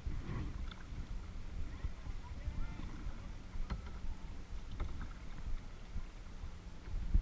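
Kayak paddling: water sloshing under a steady low rumble of wind and handling on the action camera, with a few short knocks of the paddle against the kayak.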